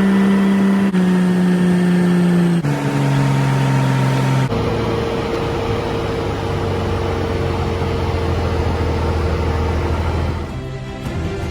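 Motorcycle engine running on the move, its steady note dropping in pitch in three steps, each with a brief dip in level, as when shifting up through the gears.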